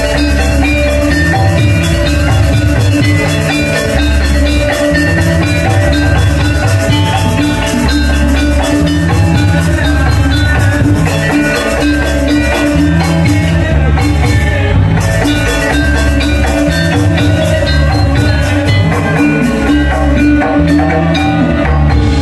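Loud live music from a gamelan-style ensemble: ringing metallophones play over a steady, repeating drum beat.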